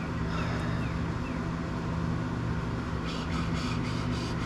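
Steady low hum in the garage. About three seconds in comes a quick run of light, evenly spaced clicks, a ratchet wrench working a nut off the rear axle's mounting bolts.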